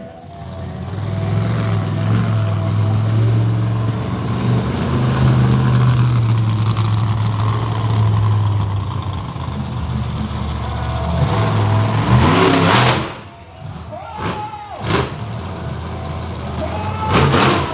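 Monster truck engine running steadily, then revving hard in a loud burst about twelve seconds in and again near the end.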